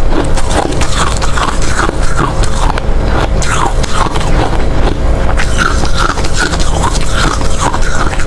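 Hard ice being bitten and chewed close to the microphone: a steady run of loud crunches.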